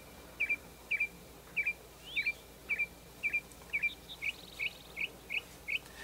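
A songbird calling: a short chirp repeated about twice a second, changing about two-thirds of the way in to a quicker series of rising notes.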